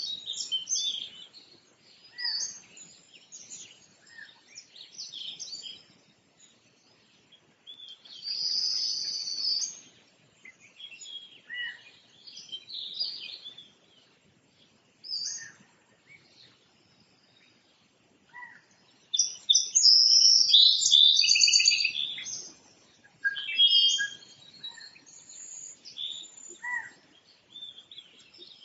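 Birds chirping and singing in short high phrases with pauses between them, busiest about two-thirds of the way through.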